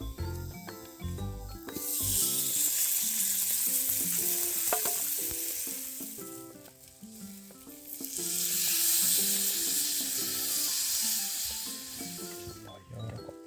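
Food frying in a pan, sizzling loudly in two spells with a lull in between, over soft background music.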